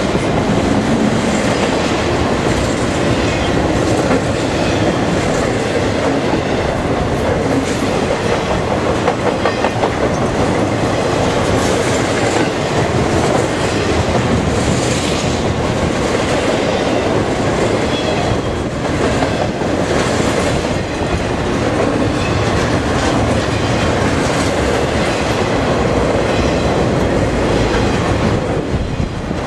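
CSX intermodal freight train's container cars rolling past close by: a loud, steady rumble of steel wheels on rail, with clickety-clack from the wheels passing over rail joints.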